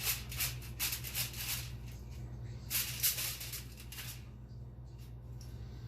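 Aluminum foil crinkling and crackling under a cat's paws, in two bursts: one in the first second and a half and another from just under 3 s to about 4 s in, over a steady low hum.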